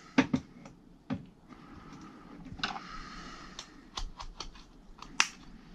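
Scattered clicks and light taps of a screwdriver and the car vacuum's plastic housing being handled as its screws are backed out, a few irregular clicks a second with a sharper click near the end.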